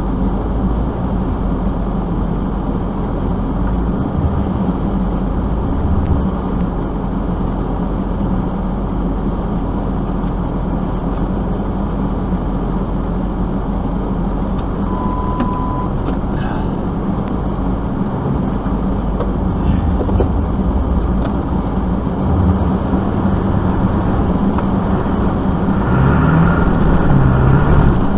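A motor vehicle running steadily with a continuous low rumble of engine and road noise, with one short beep about halfway through.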